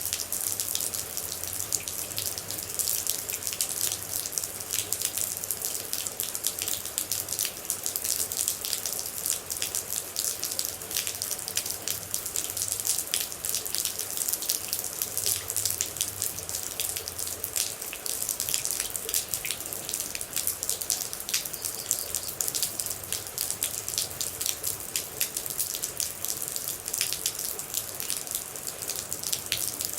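Rain and water droplets falling: a dense, steady patter of many small drops over a constant hiss.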